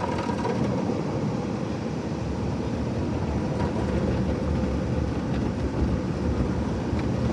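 Automatic car wash working on the car, heard from inside the cabin: a steady low rumble with a few faint ticks.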